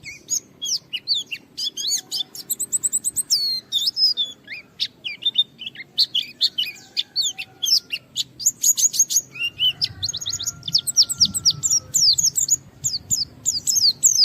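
A white-eye (pleci) singing without pause in a fast stream of high, sweeping chirps and trills, in its full, challenging 'gacor' song. The notes come thickest and loudest in the last few seconds.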